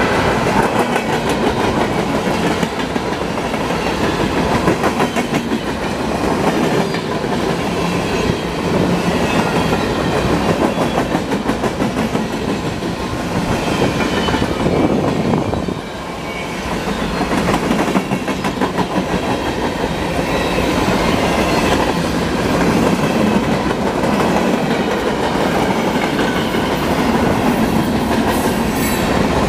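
Empty freight cars, mostly center beam flat cars, rolling past at speed: a steady loud rumble and rattle, with wheels clicking rapidly over the rail joints.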